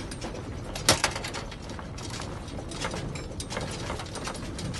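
Loose objects rattling and knocking during earthquake shaking, over a steady low rumble, with two loud knocks about a second in.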